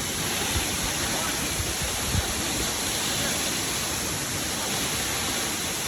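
Steady rush of water, the even roar of a waterfall or fast stream, with a brief low bump about two seconds in.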